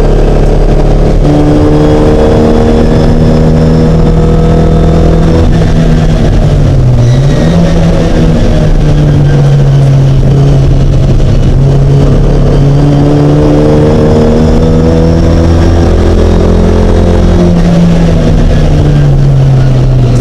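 A Mini race car engine running hard and loud, its pitch climbing and dropping repeatedly as it revs up and eases off, with a brief dip about seven seconds in.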